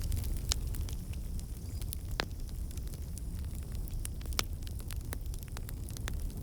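Fireplace fire crackling over a steady low rumble of the flames, with sharp pops scattered through it, the loudest about half a second, two seconds and four and a half seconds in.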